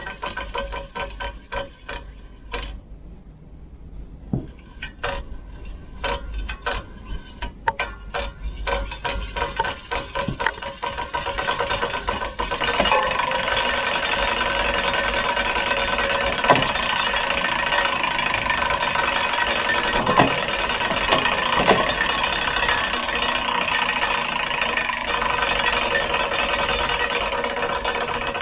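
Giant Momentum Latte bicycle in use: loose rattling and clicking at first, then from about halfway through a steady, rough running noise with a few louder knocks.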